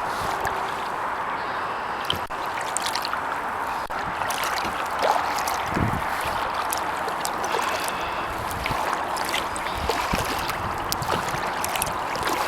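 Kayak paddling: water trickling and dripping off the paddle blades with small splashes, over a steady rushing hiss.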